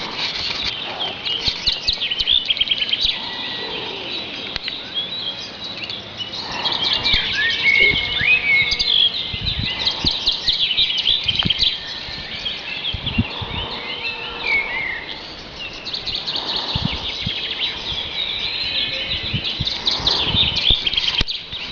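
Many birds chirping at once in a dense, overlapping chorus of short high calls, with a few low knocks.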